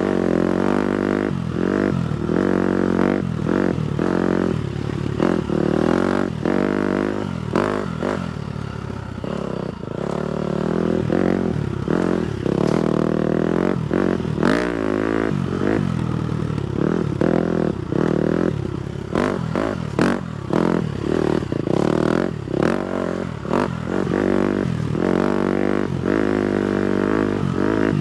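Four-stroke 250cc motocross bike engine revving up and down as it is ridden, with frequent knocks and clatter from the bike over rough ground.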